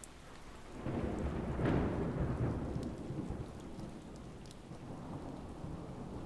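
A roll of thunder over steady heavy rain. It builds about a second in, is loudest around two seconds, then rumbles away slowly while the rain continues, with scattered drops ticking.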